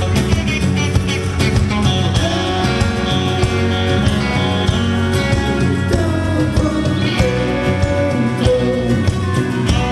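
Live band playing a rock song, dense and steady, between sung lines, with a melodic line sliding up and down in the second half.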